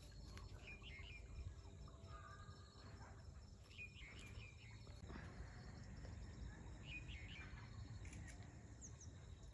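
Faint outdoor ambience: a low steady rumble with a bird chirping in short calls about every three seconds.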